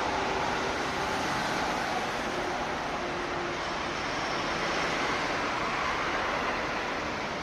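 Steady, even rushing noise of road traffic.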